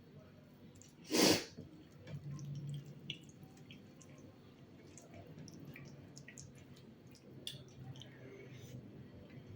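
Close-miked eating sounds: wet chewing and small scattered mouth clicks, with one short loud puff of breath-like noise about a second in.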